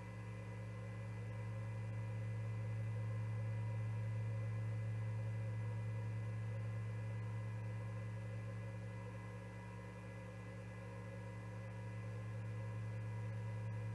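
Steady low electrical hum with a few fainter high steady tones over faint hiss, unchanging throughout.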